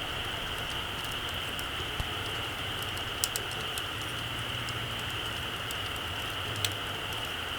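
Small campfire crackling: a few scattered sharp pops and snaps over a steady hiss, the loudest pop near the end.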